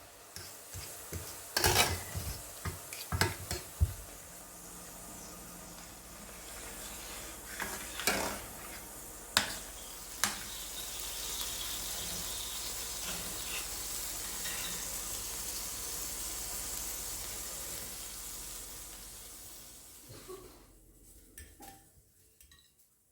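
Utensil clatter against a pan, several sharp knocks near the start and a couple more later, with food frying in a pan as a steady sizzling hiss that swells midway and fades out near the end.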